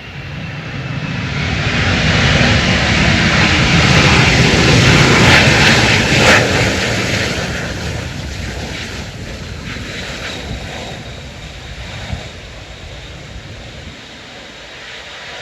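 An airliner passing close by at Itami Airport, its engine noise swelling to a peak about five or six seconds in and then fading away, with a faint falling whine at the start.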